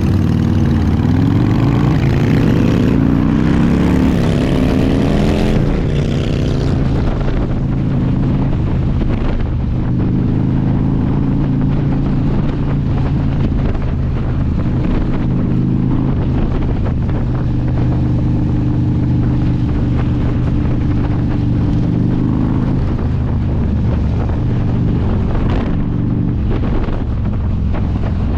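Motorcycle engine running under way, climbing in pitch as it speeds up over the first few seconds, then holding a steady cruising note with small changes in speed.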